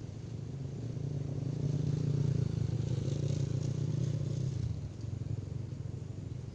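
A motor vehicle passing by, its engine sound swelling over the first few seconds and fading again near the end.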